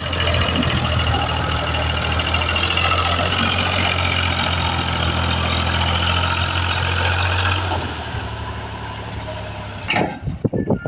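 Al-Ghazi tractor's diesel engine running steadily with a deep low hum, dropping in level about three-quarters of the way through. Short irregular sounds break in near the end.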